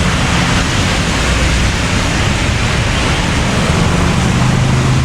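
Steady roar of road traffic on a wet road: a continuous hiss of tyres on wet pavement with the low hum of passing engines, one engine hum growing steadier near the end.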